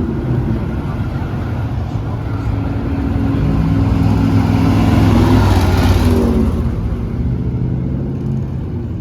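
Motor vehicle engine running steadily as traffic goes by, swelling louder about five to six seconds in as a vehicle passes close, then fading.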